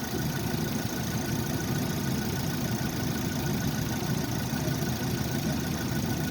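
An engine idling steadily, a continuous low hum with a faint steady whine above it.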